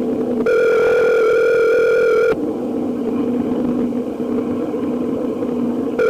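Telephone ringback tone on a recorded phone line: one ring about two seconds long starting about half a second in, then a low steady hum on the line, and the next ring beginning right at the end. The far end, the fire department, is ringing and has not yet answered.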